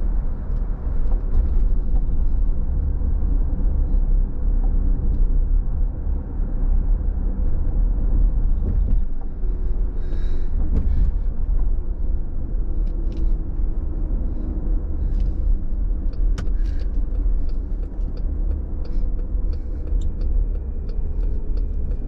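Car driving on a wet road: a steady low rumble of tyres and engine, with scattered faint ticks over it.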